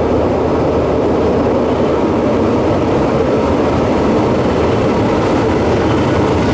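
Diesel locomotive hauling a passenger train into a station, its engine and wheels on the rails making a steady, loud noise as it draws up alongside the platform.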